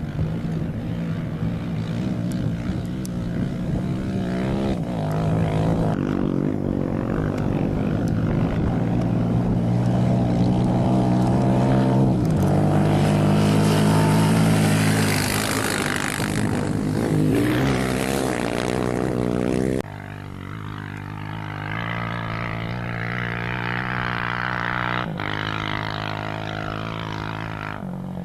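A rally racing motorcycle or quad engine running hard, its pitch stepping up and down through the gears and growing louder towards the middle. Just before the last third the sound cuts abruptly to another engine, running more quietly.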